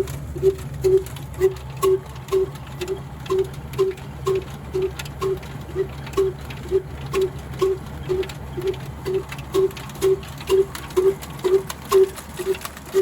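Old single-cylinder 'black' diesel engine running steadily, its exhaust beating evenly about twice a second over a low steady hum, with sharp clicks in between.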